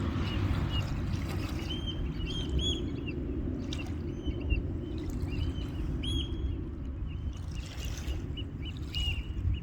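Birds calling in many short, high chirps over a steady low rumble.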